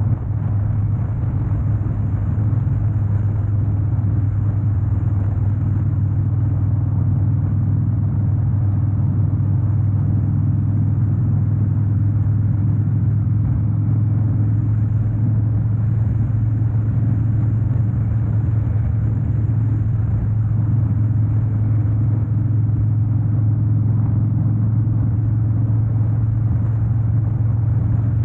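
2013 Harley-Davidson Dyna Wide Glide's 103 cubic inch air-cooled V-twin running at a steady pace while riding, a low even rumble with road noise over it.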